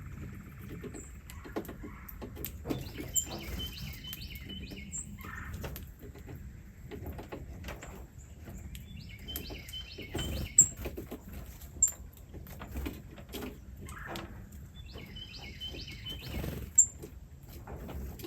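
A small bird singing the same short, quick song phrase three times, about every six seconds, over a steady low background rumble, with a few sharp clicks.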